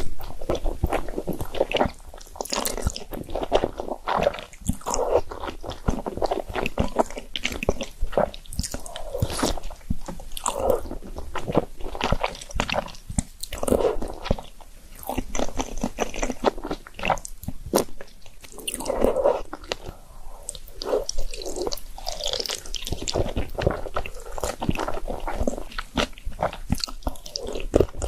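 A person chewing and biting into spicy noodles and dumplings, with many small wet mouth clicks coming irregularly throughout.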